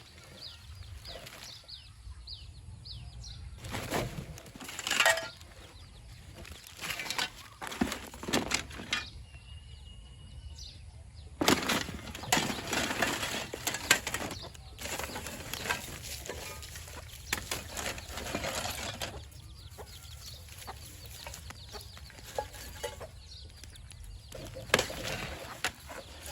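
Intermittent clicks, taps and scraping of small hard objects being handled, with a few louder knocks, consistent with tools working on a phone's parts.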